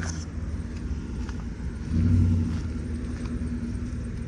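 Low, steady rumble of a running vehicle engine, briefly louder about two seconds in.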